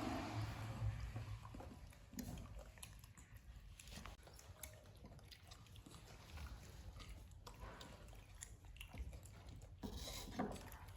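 Faint, scattered small clicks and smacks from a pet monkey, as in chewing, with a low hum in the first second or so.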